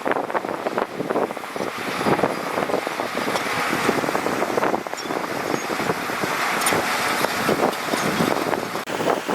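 Heavy earthmoving machinery at work: a dense, steady engine noise with constant rattling and clatter.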